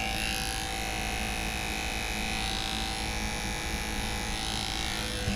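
Larger electric dog-grooming clipper running with a steady hum as it trims a puppy's paw fur.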